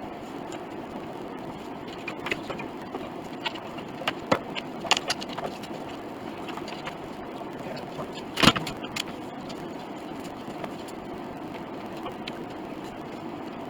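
Light clicks and clinks of small hard objects being handled over a steady low hum, with a cluster of clicks around the middle and one louder knock about eight seconds in.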